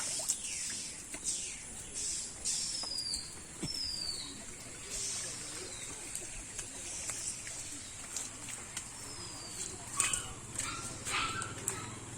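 Outdoor ambience with birds giving short, high calls that fall in pitch, repeated several times over a steady high hiss.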